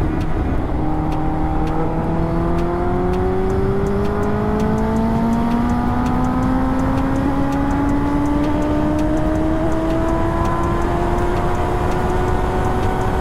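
Kawasaki ZX-10R's inline-four engine pulling in one gear, its note rising slowly and evenly with no gear change, over wind rush.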